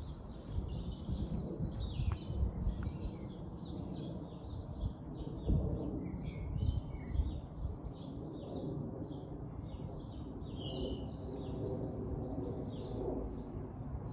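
Birdsong: several small birds chirping and trilling in quick, overlapping phrases, over a steady low rumble.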